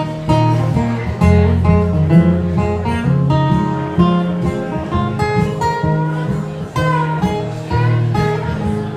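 Acoustic guitars playing an instrumental break in a folk/country song: a run of picked single notes, some of them bent, over strummed chords.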